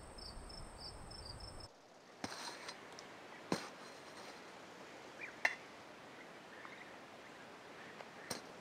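Crickets chirping in a steady pulsing rhythm, cutting off abruptly about two seconds in. Then a few sharp clicks and snaps follow over the next several seconds.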